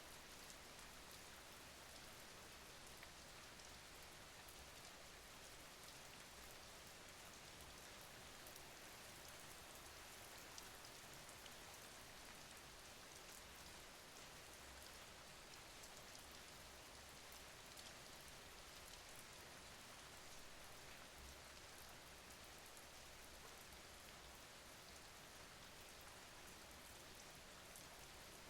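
Quiet, steady rain falling, a soft even hiss with many small drop ticks scattered through it.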